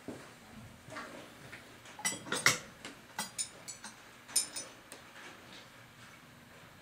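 Small metal parts clinking and tapping: a quick cluster of clinks about two seconds in, then a few single clicks up to about five seconds in.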